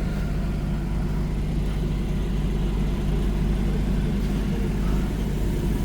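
Off-road vehicle's engine running steadily, an even low hum with no revving.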